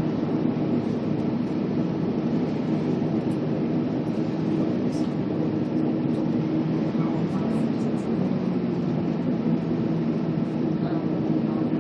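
Scania K280UB city bus engine running steadily under way, a constant low drone with road noise over it.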